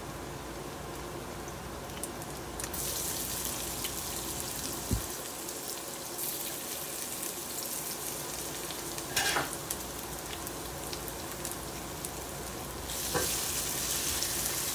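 Minced garlic and sliced Chinese sausage sizzling in hot oil in a stainless steel pan. The sizzle rises sharply about three seconds in as the garlic goes in, and again near the end as it is stirred. A few short knocks of a spatula against the pan come through.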